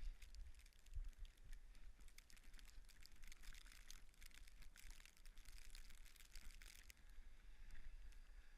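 Faint crisp crunching and ticking in snow while the dropped juggling ball is searched for. It stops about seven seconds in, leaving a faint steady hiss.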